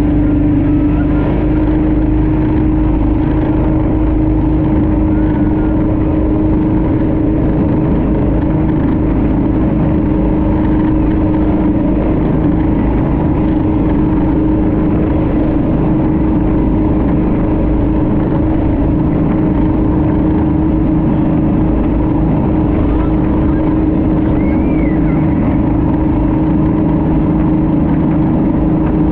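Speedboat engine running steadily at speed, a loud drone of constant pitch that steps up slightly about a second in, over a rushing noise of wind and water.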